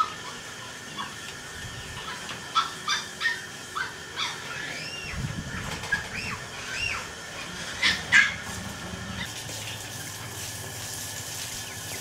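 Birds chirping: short, arched peeps repeating every half second or so, with a couple of louder, sharper calls about eight seconds in.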